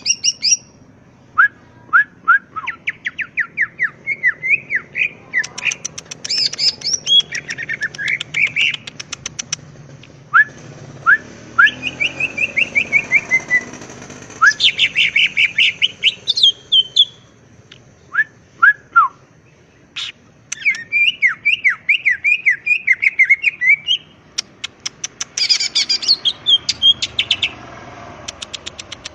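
Green leafbird (cucak ijo) singing loudly in full song: phrase after phrase of fast, short, down-sweeping whistled notes and rapid rattling trills, with brief pauses between phrases.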